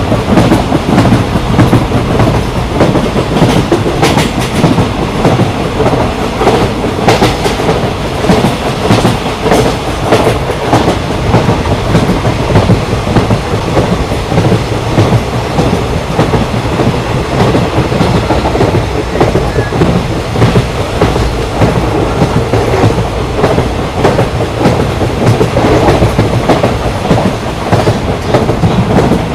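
Moving passenger train heard from on board: a steady rumble with the clickety-clack of the wheels passing over rail joints.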